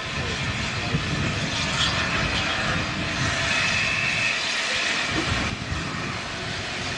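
Steam locomotive Tornado, a three-cylinder Peppercorn A1 Pacific, running with its train: a steady rumble under a hiss, with a brief higher ringing tone in the middle.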